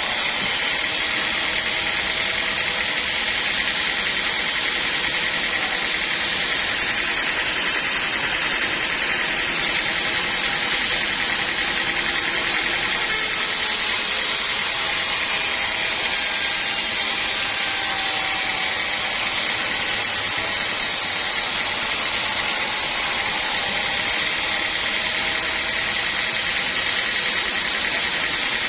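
Sawmill machinery running steadily: a continuous, even mechanical noise with no breaks or changes.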